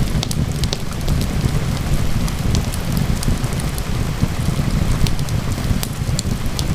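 Steady rain falling, with a deep rumbling undertone, mixed with the scattered sharp crackles and pops of a wood fire burning in a fireplace.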